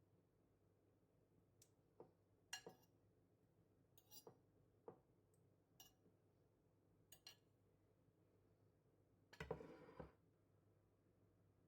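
Faint kitchen handling: a scattered series of light clinks and taps of dishes and utensils, about ten over several seconds, then a louder noise lasting about half a second near the end.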